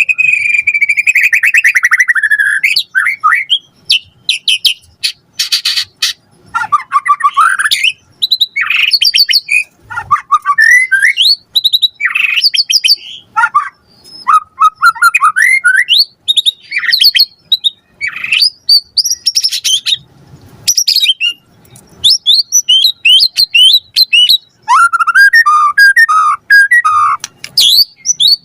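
White-rumped shama singing: a long run of fast, varied phrases of trills, rapid clicking notes, chatters and whistled slides, with short pauses between bursts.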